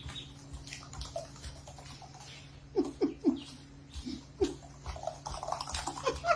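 A dog gives a few short, falling whines over a steady low hum, with small clicks and knocks.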